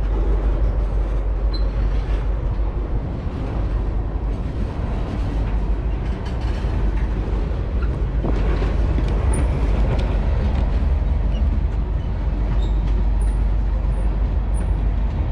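Freight train of tank cars rolling slowly past on the rails, a steady rumble of wheels and cars, with a few faint short high squeaks in the second half.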